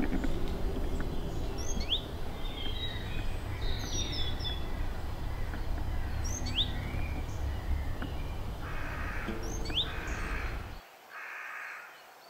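Woodland birds calling: a high, quickly falling whistle repeated about every two seconds, with three short harsh caws near the end. Under them a low rumble of wind on the microphone, which cuts off suddenly near the end.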